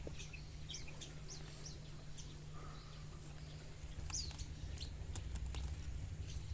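Birds in an aviary chirping: many short, high, falling chirps scattered throughout, faint, over a low steady rumble.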